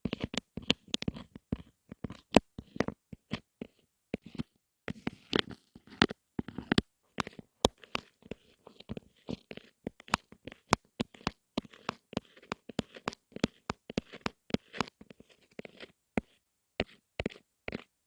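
Close-up tapping and clicking on objects, fast and irregular at several taps a second, with short scratchy rustles between some taps.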